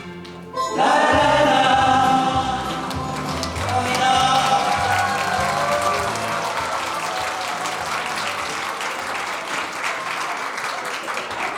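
A crowd of wedding guests bursts into cheering about a second in, then keeps up steady applause as the song ends.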